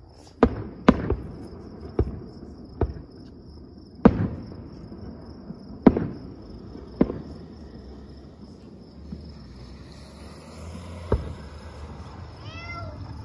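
Distant aerial fireworks shells bursting: about eight sharp bangs with echoing tails in the first seven seconds, then one more about eleven seconds in. A low steady rumble rises near the end.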